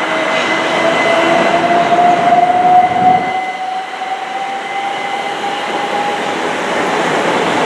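A 12-coach electric multiple-unit train pulling away, its traction motors giving a whine that rises steadily in pitch as it gathers speed, over the noise of its wheels on the track.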